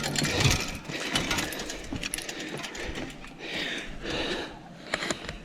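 Bicycle being pushed and lifted up stone stairs: rapid irregular clicking of the rear hub freewheel, mixed with knocks and footsteps.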